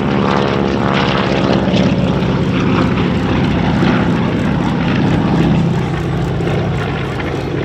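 Radial-engine propeller warbirds flying past at an air show, the engine note falling in pitch as they pass, then settling into a rough drone that eases off near the end.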